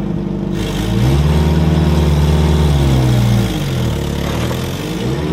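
Toyota pickup truck's engine revving up about a second in, holding, then easing back toward idle before picking up again near the end, as the truck is driven slowly. The truck has just been revived after sitting for almost two years.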